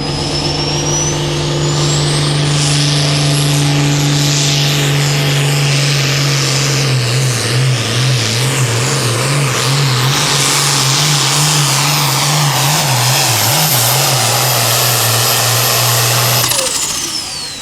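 Turbocharged diesel engine of a Ford hot farm pulling tractor running at full throttle down the track, a high turbo whine climbing in pitch over the first few seconds. The engine note wavers up and down through the middle of the pull. About a second before the end the engine cuts off and the turbo whine winds down.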